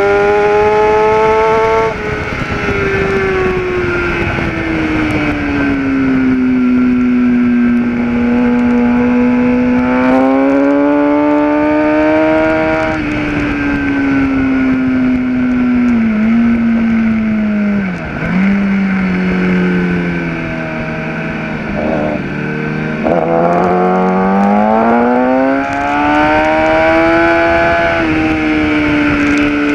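Kawasaki ZX-10R's inline-four engine heard from on board at track speed, its note falling off as the bike slows, dipping lowest around the middle with a couple of brief drops in pitch. It then climbs again in steps as the rider shifts up through the gears. Wind rush runs under the engine throughout.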